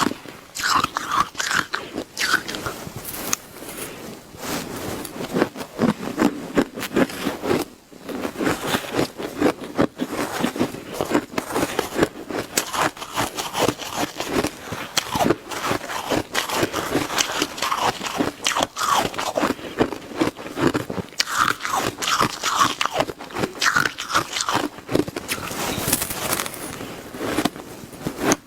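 Close-miked biting and chewing of shaved ice: dense, continuous crunching as mouthfuls of ice are bitten and crushed.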